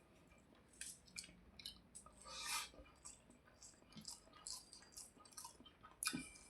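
Close-miked eating sounds: a person chewing a mouthful of food, with irregular soft wet clicks and smacks, a louder cluster about two and a half seconds in.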